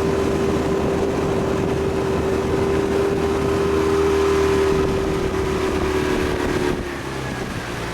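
Coach motorboat's engine running at a steady cruising speed with a constant hum, easing off about seven seconds in, with wind and water noise underneath.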